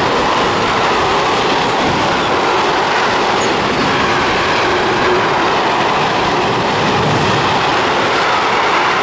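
A freight train's covered wagons rolling past at speed, a steady loud rush of wheels on rail, with a few sharp clicks in the first couple of seconds.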